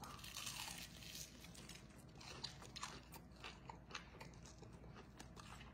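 A person bites into a crispy, breadcrumb-coated fried frog leg and chews it. The chewing is faint, with scattered small crisp crunches.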